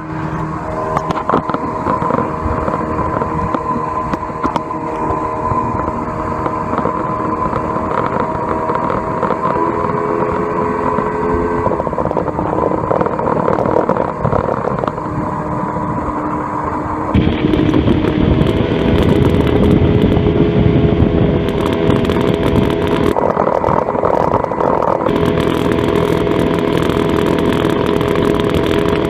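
Johnson 120 hp V4 two-stroke outboard motor running under way on a ski boat, its pitch shifting a few times with the throttle. About 17 seconds in it gets louder, with more rush of wind and water over the engine note.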